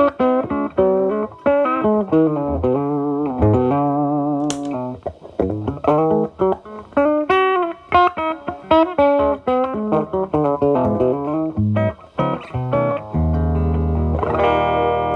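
Electric guitar with humbucker pickups played through an MXR Distortion+ pedal, with a gain boost stacked on it, into a distorted amp channel. It plays quick single-note lead licks with vibrato, then rings out on a held, low distorted chord near the end.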